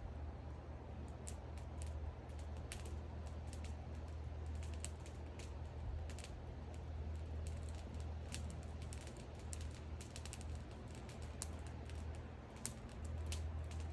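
Wood bonfire crackling: many small irregular pops and snaps of burning wood, over a low steady rumble.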